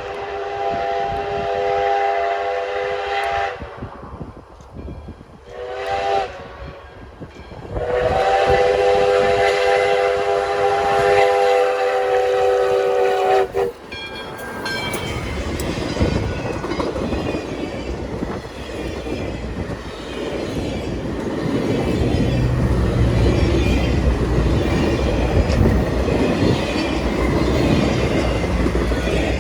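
Locomotive chime whistle on steam engine No. 148, a 4-6-2, sounding a chord in a long blast, a short one about six seconds in, then another long blast ending about halfway through. The train then rolls past with a steady rumble and clatter that grows heavier and deeper toward the end.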